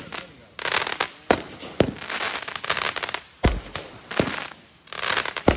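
Consumer aerial fireworks going off in quick succession: a sharp bang about every second, each followed by a spray of crackling.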